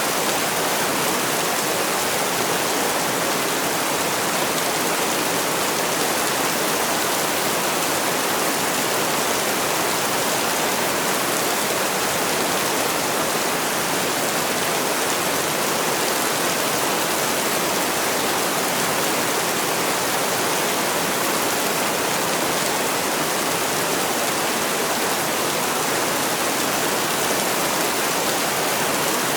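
Heavy rain falling in a steady, even hiss, with no single drops or changes standing out.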